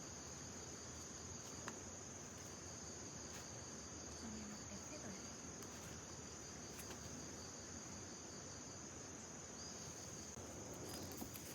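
Insects chirring in a steady, unbroken high-pitched drone.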